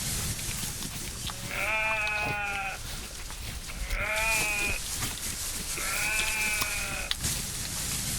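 Three drawn-out bleats from a goat or sheep, each about a second long, with short gaps between them.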